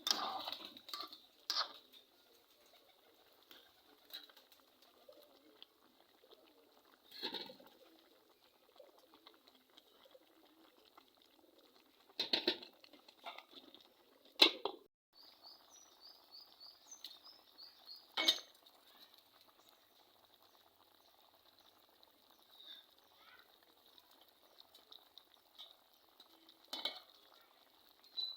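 A few separate sharp knocks spread out over a quiet background, with short high bird chirps in a quick run near the middle.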